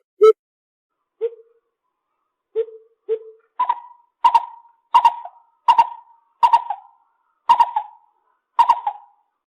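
Lesser coucal calling: a few deep hoots, then a run of higher notes about every three-quarters of a second, each tailing off.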